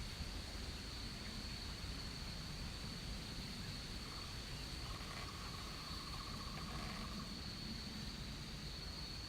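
Rainforest ambience dominated by a steady, high-pitched insect drone, with a short pulsing trill from another animal about five seconds in, over a low background rumble.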